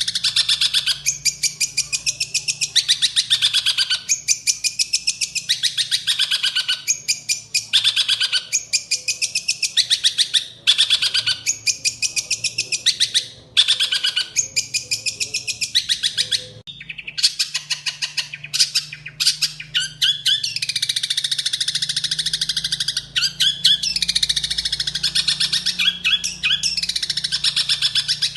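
Songbird singing a loud, fast, chattering song of rapid sweeping high notes, recorded as a master song for training caged songbirds. For the first half it sings in phrases about a second long with short gaps. After a brief break about halfway through, the song runs almost without pause.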